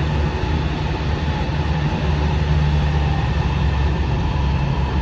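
Running noise heard inside a JR West 207 series 0-subseries commuter train, an unrenovated car with a Mitsubishi power-transistor VVVF inverter. It is a steady, loud rumble of wheels and running gear on the rails, with a faint steady tone above it.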